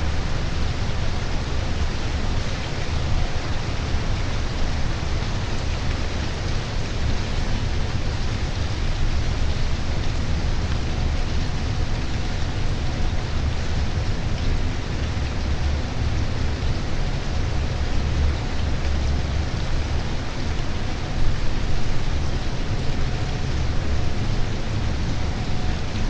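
Steady rain falling, an even hiss, with a strong low rumble underneath.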